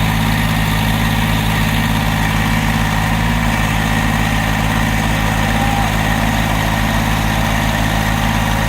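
Tractor engine running steadily at a low, even speed while the tractor works with a heavy load of wood.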